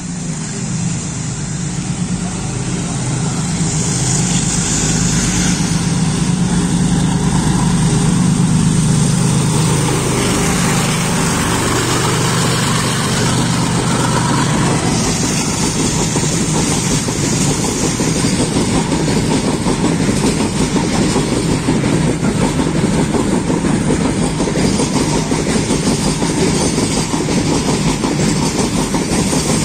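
Diesel locomotive hauling a long freight train of loaded open wagons through a station at speed. The engine's low drone builds and passes over the first ten seconds or so, then gives way to the steady clatter and rattle of the wagons rolling by.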